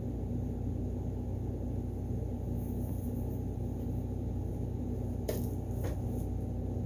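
Steady low background hum with two short clicks about five and six seconds in.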